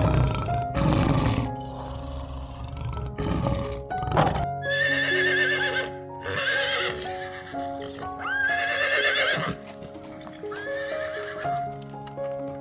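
Deep, rough roars through the first four seconds or so, then four whinnying calls, each about a second long, rising at the start and quavering, over background music.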